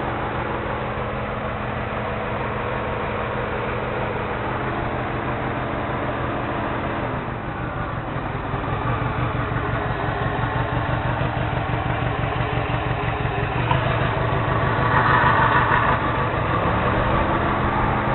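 Subaru EJ205 turbocharged flat-four idling roughly and shaking, with a misfire in cylinder 3 that the seller suspects comes from a cracked valve. About seven seconds in, a steady whine slides down in pitch and the idle turns into a louder, uneven pulsing. Near the end a whine rises back in.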